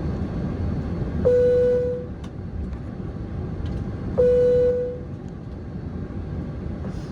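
Two single-tone chimes from the cabin chime system of a Boeing 767-300ER airliner, about three seconds apart, each ringing for under a second. Beneath them runs the steady low rumble of the cabin while the plane taxis.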